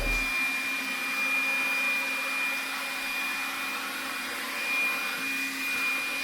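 Makita 18V cordless vacuum (DCL180) running steadily on its battery, a constant motor drone with a thin high-pitched whine over it.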